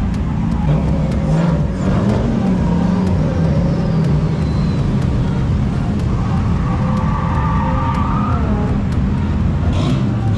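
Car engines running and revving, their pitch rising and falling.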